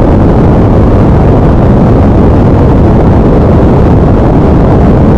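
Light aircraft in flight heard from inside the cabin: a loud, steady rumble of engine, propeller and rushing air.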